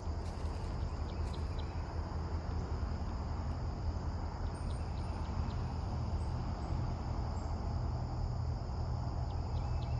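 Steady chorus of insects trilling, with a steady low rumble underneath.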